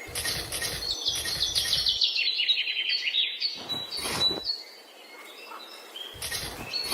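A songbird singing a trill that steps down in pitch, starting about a second in and lasting about two seconds, with other short chirps around it. Several brief bursts of low rumbling noise come and go over it.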